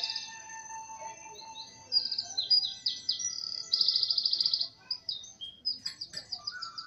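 Songbirds chirping and trilling: high quick notes, a fast trill about four seconds in, and a run of short chirps near the end.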